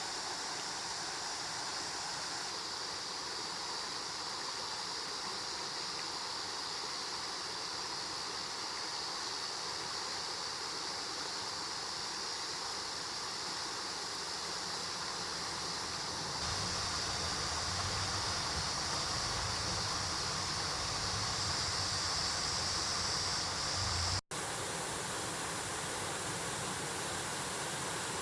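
Mountain stream flowing: a steady rush of water that grows fuller and deeper a little over halfway through, broken once by a momentary silence near the end.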